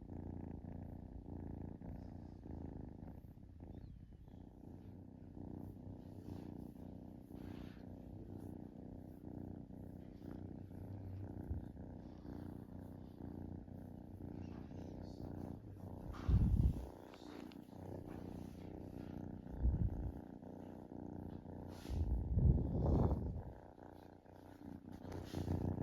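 Kitten purring close to the microphone, a steady low rumble of fast even pulses. In the second half a few louder low thumps break in, one after another.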